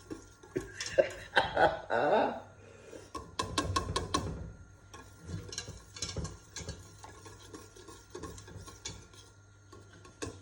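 A spoon stirring and scraping around a pot of thickening flour roux, with irregular knocks and light clinks against the pot.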